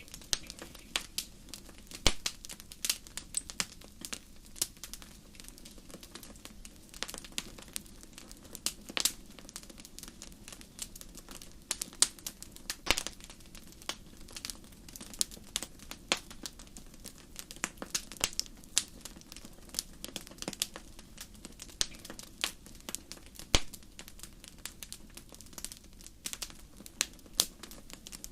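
Wood fire burning, with frequent irregular sharp crackles and pops over a soft steady hiss.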